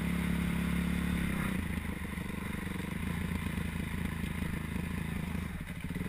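Motocross bike engine running: held at higher revs for the first second and a half, then dropping to a lower, rough, choppy note as the throttle comes off, and cutting out abruptly at the very end.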